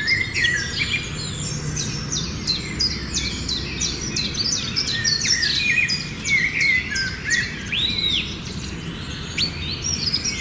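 A group of small birds chirping and calling together, many short, quick-falling notes overlapping without a break, with one longer rising-and-falling call about eight seconds in, over a low steady background rumble.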